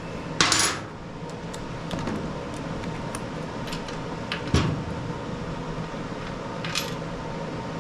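Hand tools working on bolts: scattered metallic clicks, knocks and short scraping bursts as a wrench is worked on a bolt. The sharpest knock comes about four and a half seconds in, all over a steady background hum.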